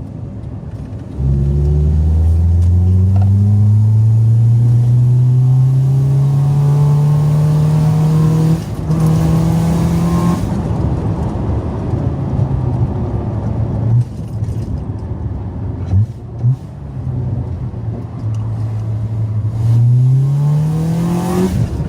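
Citroën Saxo VTR's engine, running with its airbox disconnected so the induction noise is unsilenced, accelerating hard. The engine note cuts in about a second in and its pitch rises steadily for several seconds, then drops to a lower, steadier note. Near the end it climbs quickly again.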